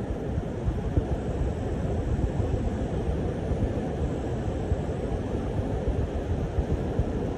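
Typhoon wind and rough sea: a steady low rumble of wind blowing on the microphone and surf, with gusty bumps in loudness.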